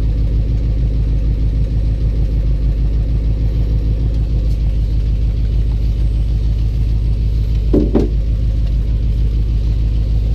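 The 1984 box truck's engine idling steadily with a rhythmic knock, which the owner says sounds kind of like engine knock and suspects may be a loose flywheel or torque converter. There is one short, louder sound about eight seconds in.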